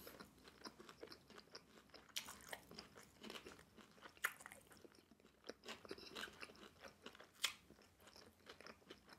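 Close-up chewing of battered, sauce-coated sweet and sour pork: quiet, wet mouth clicks and soft crunching, with a few sharper crunches about two, four and seven seconds in.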